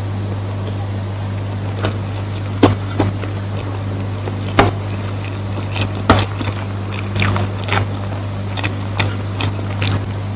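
Close-up mouth sounds of someone eating rice: chewing with a dozen or so short, sharp smacks and clicks at irregular intervals, over a steady low hum.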